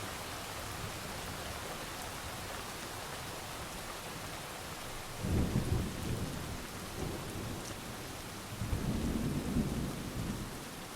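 Steady heavy rain with two low rolls of thunder, the first about five seconds in and the second a few seconds later, each swelling and fading.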